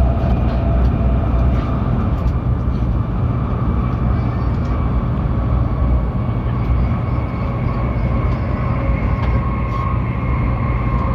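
Hokuriku Shinkansen train running at speed, heard inside the passenger car: a steady low rumble of wheels on rail, with a faint steady whine above it.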